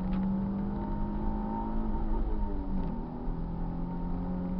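Car engine running at speed on a circuit. Its note holds steady, wavers about halfway through, then settles a little lower.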